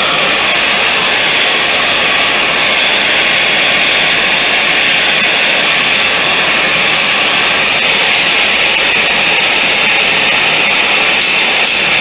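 Steady rushing noise of a forge's air blast or burner while the steel for a fireplace poker heats. A few light metallic taps come in near the end.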